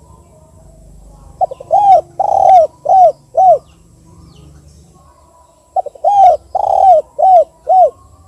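Spotted dove cooing twice in its 'kuk 2' call pattern. Each phrase is a short stutter followed by four round coos, about two seconds long, with the two phrases a couple of seconds apart.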